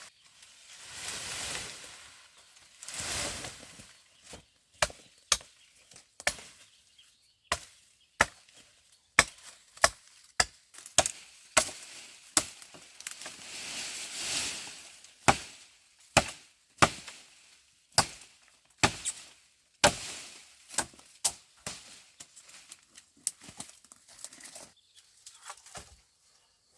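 Repeated chopping blows on wood, roughly one to two sharp strikes a second, with brief rustling between them.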